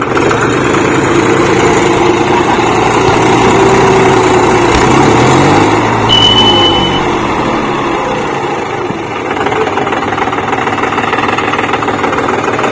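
Tractor engines running hard, their speed rising and falling as they pull a cage-wheel tractor out of deep mud. A short high-pitched tone sounds about six seconds in.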